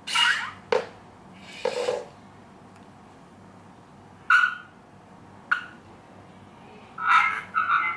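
Parrot Jumping Night mini drone making short, separate bursts of sound: three in the first two seconds, two around the middle, and a quick run of them near the end, some with a steady electronic tone in them.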